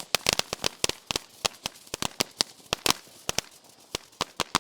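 Firework fountain's red strobe effect popping: rapid, irregular sharp cracks, several a second, some much louder than others.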